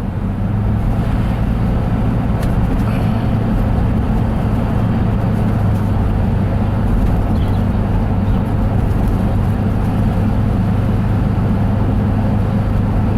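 Pickup truck driving, heard from inside the cab: a steady low engine drone with road noise.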